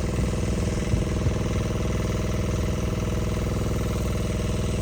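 Generator engine running steadily at constant speed, a continuous drone.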